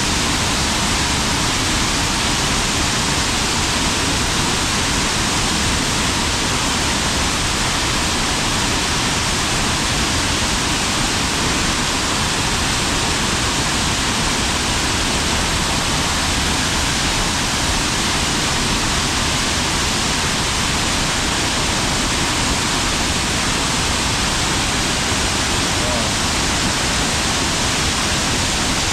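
Waterfall close by: a loud, steady rush of falling water, an even hiss that does not let up.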